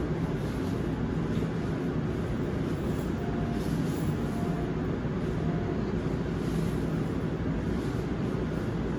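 Steady interior noise of a Seoul Subway Line 7 7000-series electric train, a low even rumble. Three faint short tones sound about a second apart in the middle of it.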